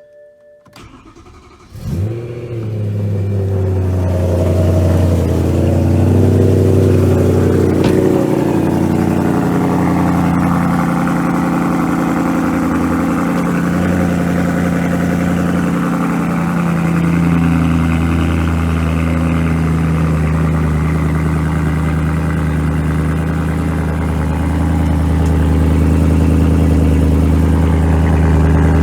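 BMW E92 M3's S65 4.0-litre V8 cold-starting: it fires about two seconds in and settles into a steady idle, the note wavering at first and holding even from about halfway.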